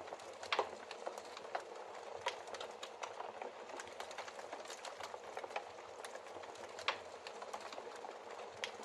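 Wood fire burning in a fireplace: a steady hiss of flames with irregular crackles and pops from the burning logs, the sharpest just after half a second in and near seven seconds in.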